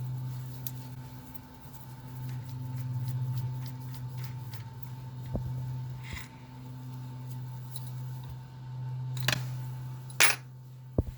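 Sharp clicks and taps of tools and small metal parts being handled while an antique electric table fan is taken apart, a few scattered and the loudest about ten seconds in, over a steady low hum.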